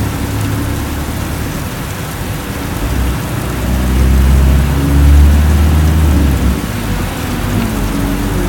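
Heavy rain pouring down on a vehicle, a steady hiss, with a deep low rumble that swells from about three and a half to six and a half seconds in.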